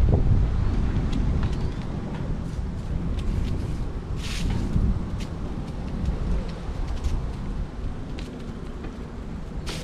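Bicycle ride noise: wind rumbling on the microphone, with scattered clicks and rattles from the bike. There is a brief hiss about four seconds in.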